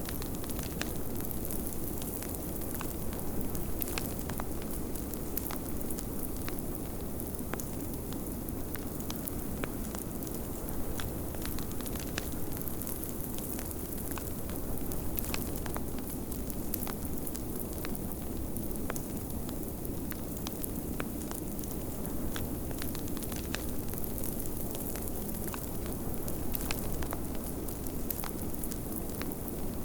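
Wood fire crackling with scattered sharp pops, over the steady low rush of snowstorm wind.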